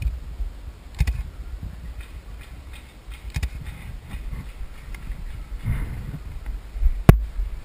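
Wind rumbling on the microphone, with scattered short knocks and one sharp crack about seven seconds in.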